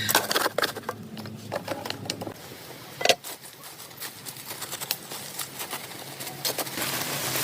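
Irregular clicks and knocks of kitchen utensils against cookware while cooking, the loudest about three seconds in, over a low hum that fades about two seconds in.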